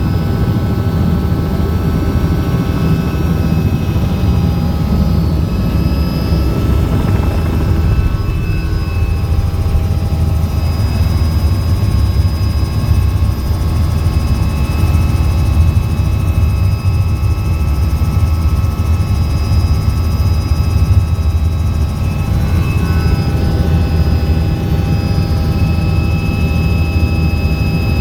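Helicopter in flight: a steady, loud low rumble from the rotors and engines, with several thin whining tones held steady above it.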